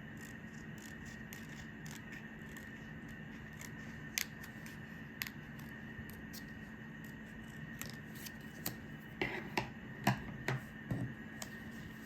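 Light clicks and taps of small objects being handled, with a cluster of louder knocks about nine to eleven seconds in.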